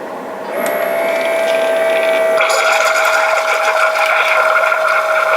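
A small electric appliance motor running with a steady hum, joined by a louder whirring hiss about two and a half seconds in.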